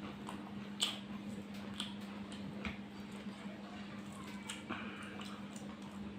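Wet eating sounds of curry and rice being chewed: scattered smacking clicks and squishes, over a steady low hum.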